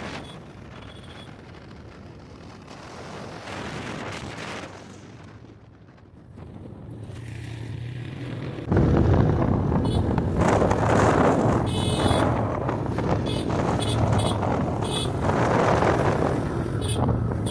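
Motorcycle engine running with wind rushing over the microphone; fairly quiet at first, then suddenly much louder about nine seconds in, with a steady low engine drone under heavy wind noise.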